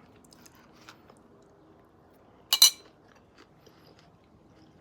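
A sharp double clink of cutlery against a dish about two and a half seconds in, with a few faint small clicks around it.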